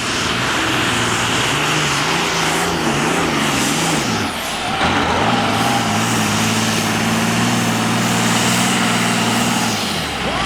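Tractor-pulling machine's engine running hard, its pitch wavering up and down for the first four seconds or so, then held steady until a slight drop near the end, over a loud rushing hiss.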